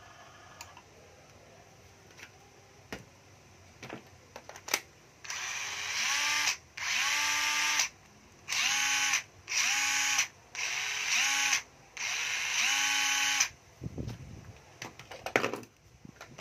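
A 9.6 V cordless drill run in about six short trigger bursts, each spinning up with a rising whine and then holding a steady pitch for about a second. Light clicks of the tool being handled come before and after the bursts.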